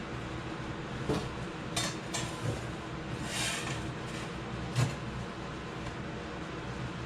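Light metal clanks and clinks, about five of them spread over a few seconds, with a brief scraping sound in the middle: sheet-metal plate and tools being handled on the bench.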